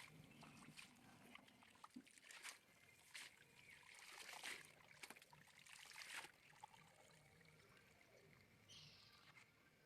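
Faint splashing and trickling of water, with scattered small clicks and knocks.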